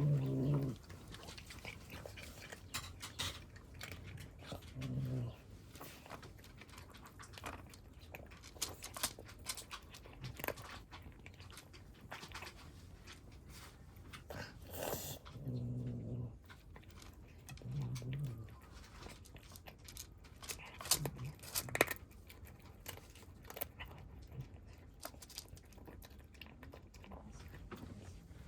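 Cats eating at a feeding, with scattered sharp crunching clicks and five short, low animal vocal sounds spread across the stretch.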